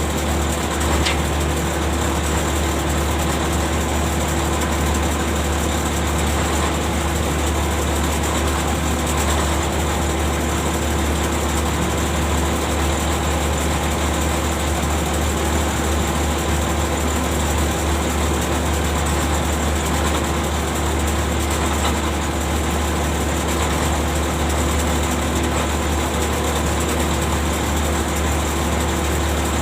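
Ship's heavy machinery running steadily: a constant low engine drone with several steady hum tones, unchanging in pace and level.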